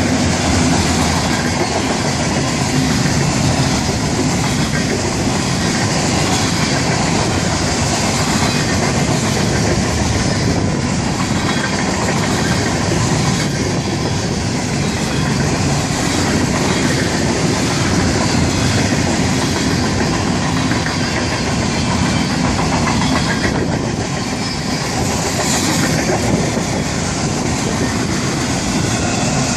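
Florida East Coast Railway freight train's cars rolling past close by: a steady rumble of steel wheels on rail with clickety-clack over the joints.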